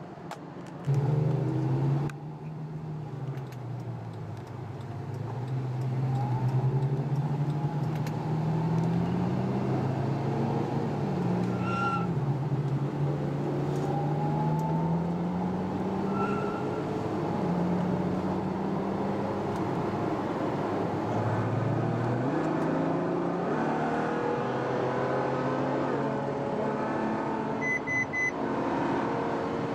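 Car engine pulling through the gears: its pitch climbs slowly, then drops back at each shift, again and again. Short electronic beeps sound twice in the middle, and a quick double beep comes near the end.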